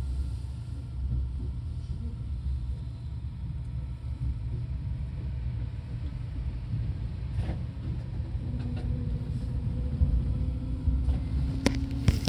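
Seibu 2000 series electric train running, a steady low rumble of the train under way. A faint steady hum comes in about two-thirds through, and a few sharp clicks sound near the end.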